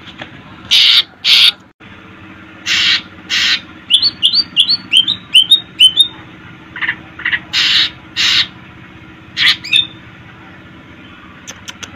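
Cucak ijo (green leafbird) singing: loud harsh calls in pairs, a quick run of about seven short rising chirps near the middle, then more harsh calls. The calls fall quiet for the last couple of seconds, leaving a faint steady hum.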